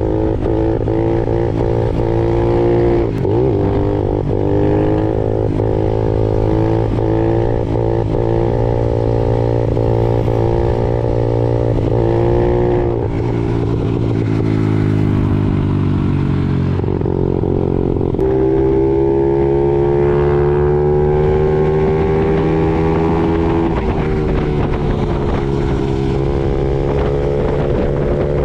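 Honda CRF50 mini bike's single-cylinder engine running under way, its pitch wavering with the throttle. It drops about 13 seconds in, then climbs steadily from about 18 seconds before settling again.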